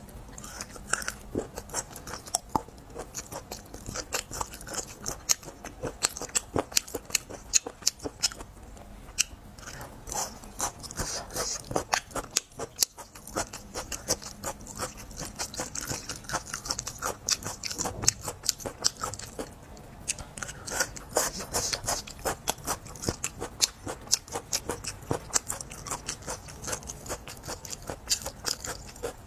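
Close-miked chewing of spicy chili-coated meat strips: a continuous run of small crunches and mouth clicks, several a second.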